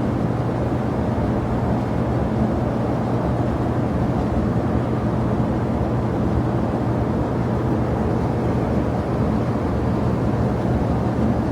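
Steady jet aircraft engine noise, an even low rumble with a faint steady hum, holding level without rising or falling.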